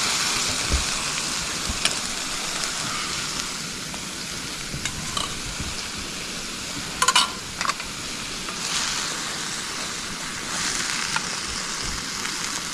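Vegetables sizzling as they fry in a pan on a gas stove. A few sharp clicks of a utensil against the pan come through, a cluster about seven seconds in being the loudest.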